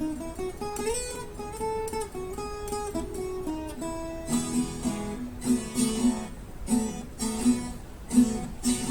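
Acoustic guitar playing an instrumental interlude: a picked melody line of single notes for the first few seconds, then rhythmic strummed chords over a repeated bass note from about four seconds in.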